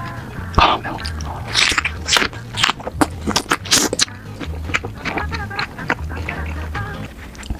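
Close-miked eating sounds: repeated crisp bites and chewing, with background music that has a steady low beat.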